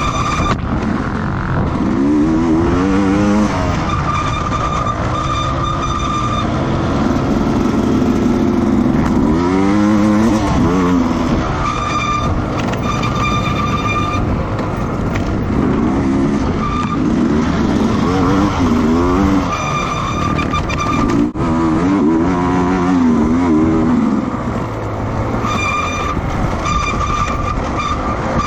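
Racing motorcycle engines running at high revs, their pitch climbing and dropping again and again through the gears as bikes go round the track. A high steady whine comes and goes in several stretches.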